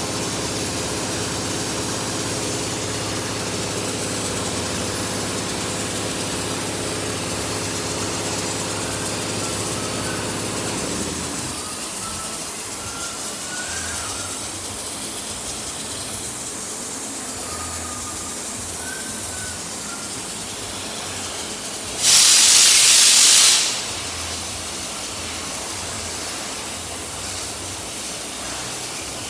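Compressed-air gel coat spraying setup: a steady hiss of air under the hum of a running compressor, which cuts out about a third of the way in. Later, a loud blast of hissing air from the spray gun lasts about a second and a half.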